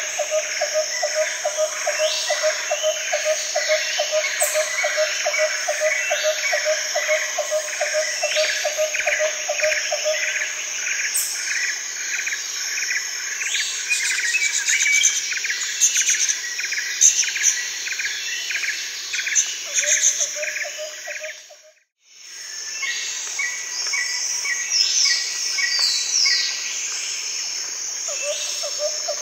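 Nature ambience of birdsong over a dense, steady chorus of insects, with a low call pulsing about three or four times a second for the first ten seconds. The whole sound dips out briefly about 22 seconds in and comes back.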